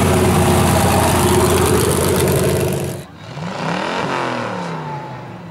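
Offroad vehicle engine running loud and steady at high revs, cutting off abruptly about three seconds in. A quieter engine then revs up and back down.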